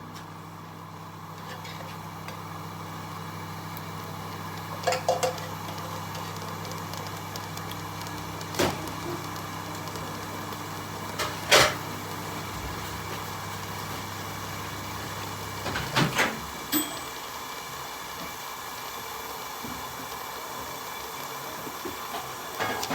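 Kitchen sounds as a pot of tomato stew cooks: a steady hiss, a few sharp clinks and knocks like a spoon on the pot, and a low hum that stops about two-thirds of the way through.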